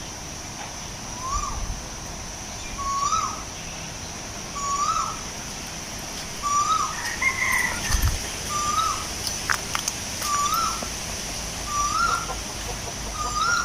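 A bird calling over and over: about eight short notes, each rising then falling in pitch, one every second and a half or so, over a steady high hiss.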